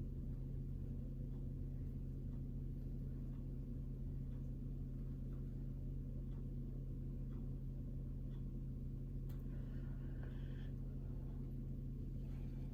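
A steady low mechanical hum that holds one even pitch throughout, with a few faint ticks.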